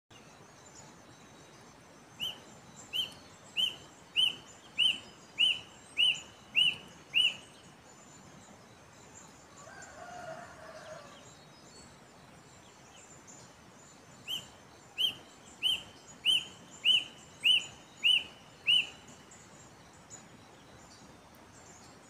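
A bird singing two runs of about nine clear, upslurred whistled notes, about one and a half notes a second, each run growing louder toward its middle.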